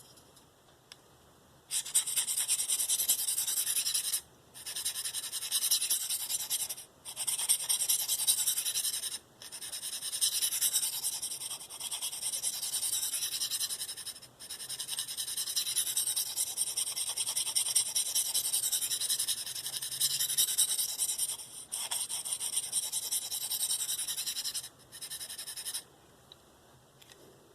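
A knife's S30V steel edge scraping along the fine 25-micron DMT Diafold diamond plate as it is sharpened. The edge is drawn in a hissy, high-pitched scrape, in runs of a few seconds broken by short pauses, starting a moment in and stopping shortly before the end.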